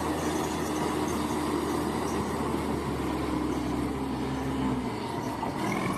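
Bulldozer's diesel engine running steadily, its note shifting slightly near the end.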